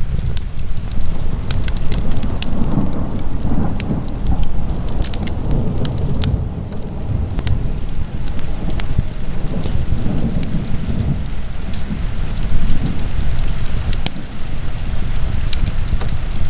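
Wood fire burning in a fireplace: many sharp crackles and pops over a steady low rumble.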